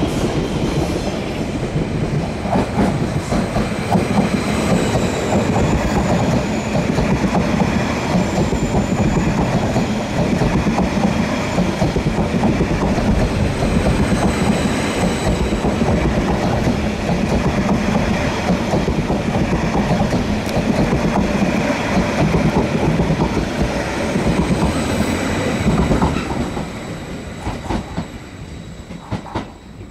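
Train running along the rails, a loud steady noise with faint high whines over it, dying away near the end as it moves off.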